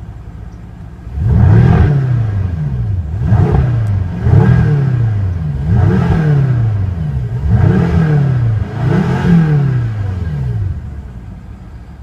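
BMW M6 Gran Coupe's 4.4-litre twin-turbo V8 revved six times, starting about a second in. Each blip rises and falls in pitch, and the engine eases back toward idle near the end.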